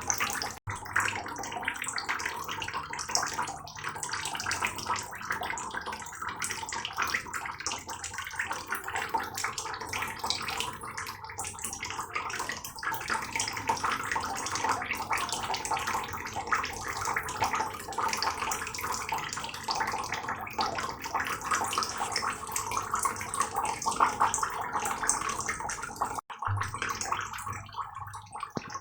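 Heavy rain falling: a dense, steady patter of water drops, cutting out for an instant twice.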